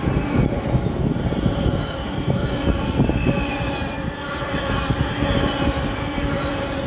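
Container freight train's wagons rolling past on the rails: a steady rumble of wheels on track with irregular low knocks and thin, faint wheel-squeal tones above it.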